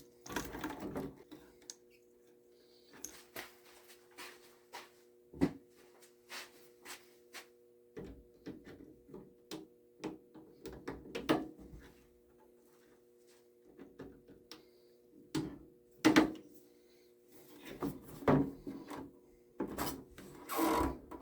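Irregular clicks, knocks and rubbing as plastic parts and drain tubing of a tankless water heater's condensate collector are handled and fitted, with a sharper knock about two-thirds of the way in, over a steady low hum.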